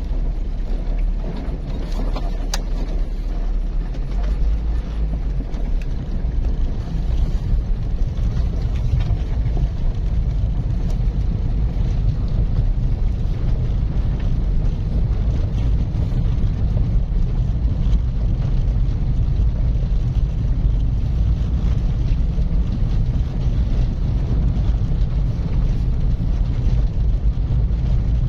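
A car driving steadily along a road: a constant low rumble of engine and tyre noise.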